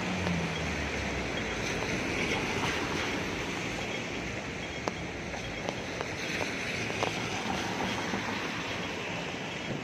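Steady hiss of heavy rain on a wet street and umbrella, with a low vehicle hum that fades out in the first second and a few faint, scattered clicks.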